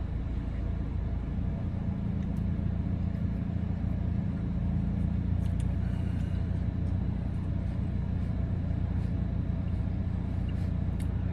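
Car engine idling, heard from inside the cabin: a steady low hum, with a few faint clicks over it.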